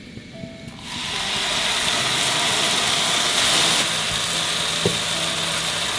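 Blended chili spice paste hitting a hot wok and sizzling: a sharp rise to a loud, steady hiss about a second in, then steady frying.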